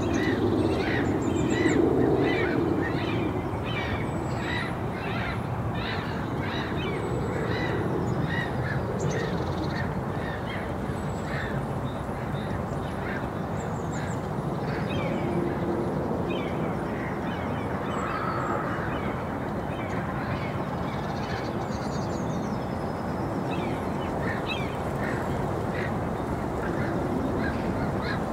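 Park ambience: birds calling over and over, about two calls a second for the first ten seconds, then more sparsely, with occasional faint high chirps from small birds above a steady background rumble.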